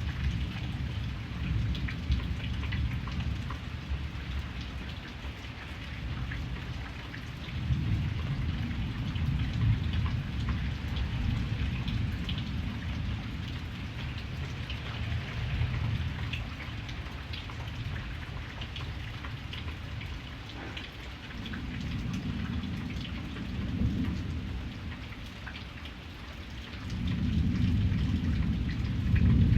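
Steady rain pattering, with low thunder rumbling underneath that swells a few times, loudest near the end.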